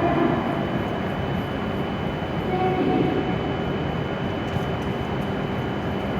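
Hokuriku Shinkansen train at the station platform, a steady running noise with a thin, steady high-pitched tone over it.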